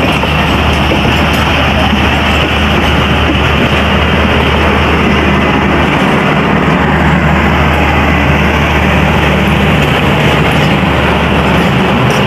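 Pakistan Express passenger train running: a steady, loud rumble and rush of the moving train on the track.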